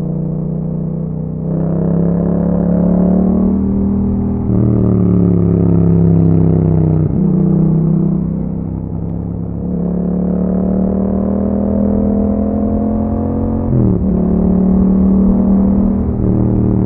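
Yamaha MT-07's 689 cc parallel-twin engine running through an Akrapovic exhaust while riding. The exhaust note holds or drifts slowly in pitch, broken several times by quick dips and jumps in pitch and loudness.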